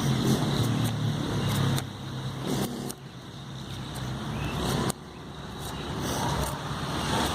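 A knife blade shaving slivers off dry wood in a few strokes, over a steady low engine hum.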